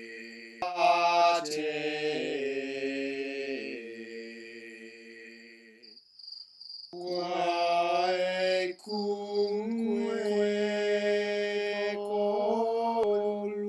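Chant-like vocal music of long held notes that change pitch in steps, with a brief break about six seconds in.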